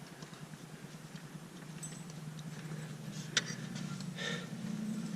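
Small metallic clicks and clinks of tractor clutch parts, the throwout bearing and its spring, being worked into place by hand, with one sharp click about three and a half seconds in and a short rattle soon after, over a steady low hum.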